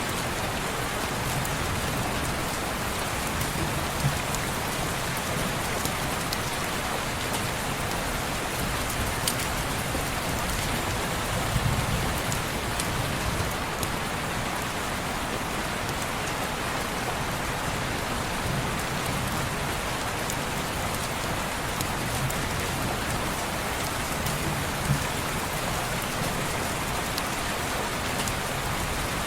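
Steady rain falling on window glass, an even hiss with scattered sharp ticks.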